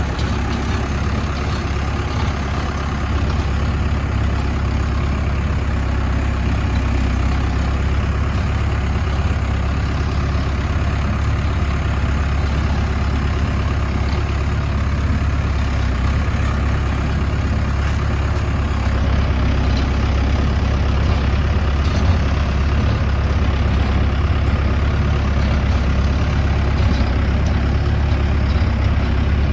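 Mahindra tractor's diesel engine running steadily, with a deep, even drone that grows slightly louder about two-thirds of the way through.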